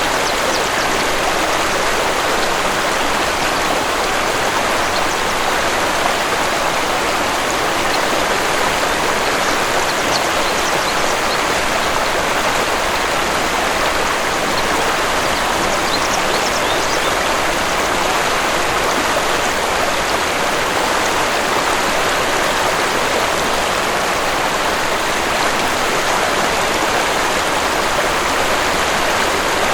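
Waterfall: a steady, even rush of falling water, with a few faint high bird chirps around the middle.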